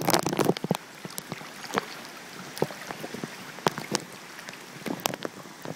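Floodwater sloshing and splashing around a person wading through it, in irregular short splashes with a cluster of louder ones at the start.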